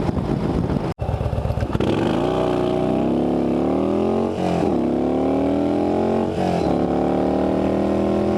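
Yamaha motorcycle engine accelerating up through the gears. Its pitch climbs from about two seconds in, drops at two upshifts about four and a half and six and a half seconds in, then settles into a steady cruise.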